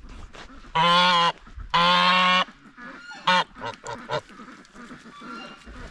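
Domestic geese honking: two loud, drawn-out honks about one and two seconds in, followed by several shorter, quieter calls.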